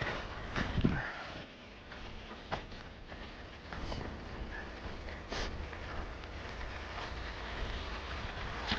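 A rider breathing and sniffing close to the microphone, with a few scattered clicks over a low steady rumble.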